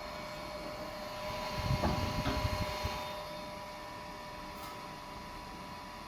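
Steady electrical whine made of several fixed high tones. Around two seconds in, a short cluster of low thumps and two sharp clicks rises over it.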